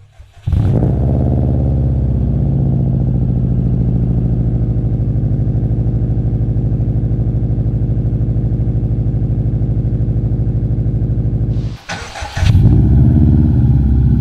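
2004 Subaru WRX's turbocharged flat-four with an Invidia N1 racing catback exhaust, cold-started: it cranks briefly, catches within the first second and settles into a steady, fast cold idle. About twelve seconds in the sound breaks with a short burst of noise, and the engine comes back running a little louder.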